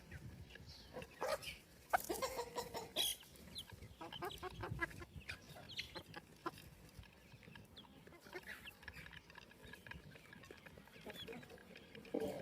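Free-range chickens clucking and calling in short scattered bursts, with small clicks and taps as they peck and move about.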